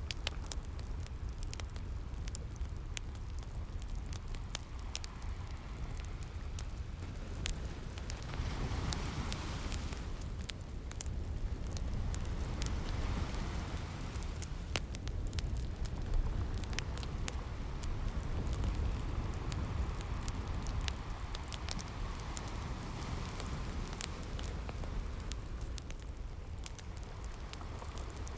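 Fireplace crackling with frequent sharp pops and snaps, over a steady low rumble of ocean surf that swells up and washes in a few times.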